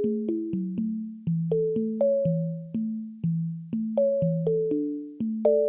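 Instrumental song intro on a keyboard with an electric-piano sound, with no singing. It plays a bouncy figure of short struck notes that die away, with a low bass line under a higher melody, about four notes a second.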